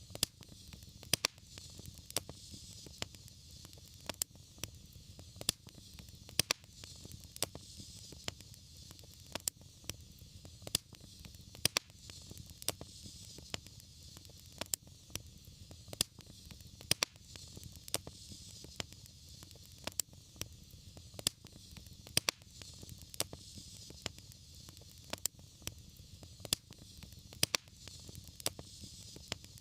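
Wood fire burning in a fireplace: a steady low rumble and hiss with sharp crackles and pops at irregular intervals, several a second.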